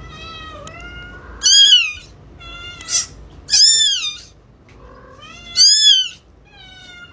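A cat meowing repeatedly: three loud, high-pitched meows that each rise and fall in pitch, about two seconds apart, with fainter, lower meows in between.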